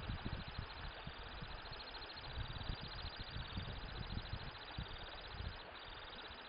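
Temminck's stint singing: a long, rapid, high trill that runs on with slight rises and dips in pitch and a short break about five and a half seconds in. Wind rumbles on the microphone underneath.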